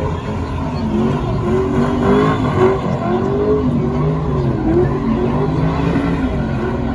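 Car engine revving, its pitch rising and falling again and again, over a steady noisy rumble.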